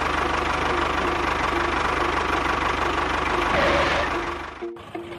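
Miniature tractor's engine sound running steadily with a fast, even knock, cutting off abruptly near the end.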